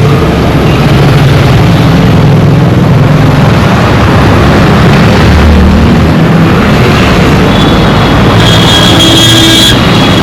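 Dense road traffic at close range: vehicle engines running with a continuous rumble of road noise. A short high-pitched tone sounds for about a second near the end.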